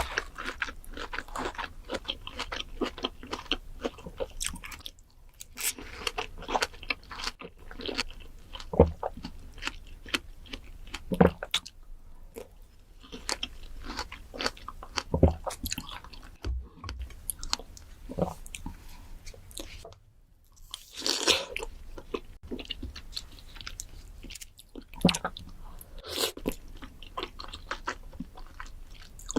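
Close-miked ASMR eating sounds: bites into crisp fruit and crunchy chewing, a dense run of crackling crunches broken by a few short pauses.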